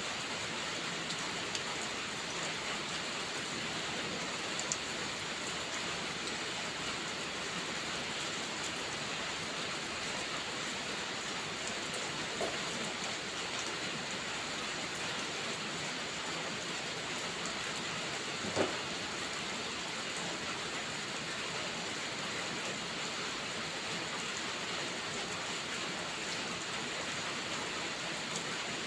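Steady heavy rain, an even hiss, with a few isolated sharp pops: one about five seconds in, a fainter one near the middle and the loudest about two-thirds through.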